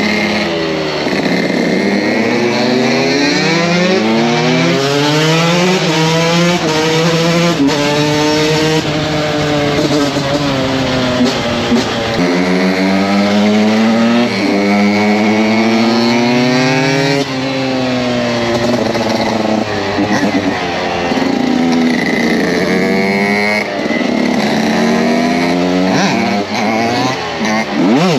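KTM 125 SX single-cylinder two-stroke dirt bike engine being ridden hard, its pitch climbing in long pulls and falling off sharply several times, as at gear changes or throttle-offs.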